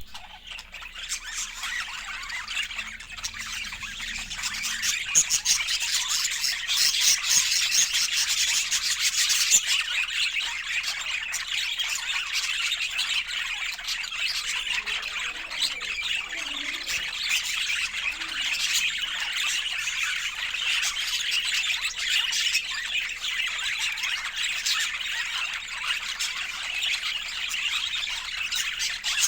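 Pet budgerigars chattering: a dense, continuous stream of high-pitched warbles, chirps and squeaks from several birds at once, growing louder over the first few seconds.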